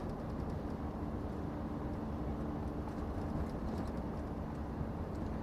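Inside a Scania truck's cab at road speed: the engine drones steadily under a constant rumble of tyre and road noise, with a faint steady hum.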